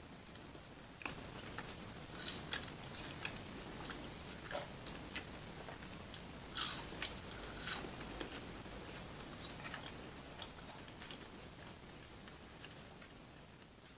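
Close-miked eating of a double-patty cheeseburger: biting and chewing with short wet clicks and smacks, the loudest cluster a little past halfway.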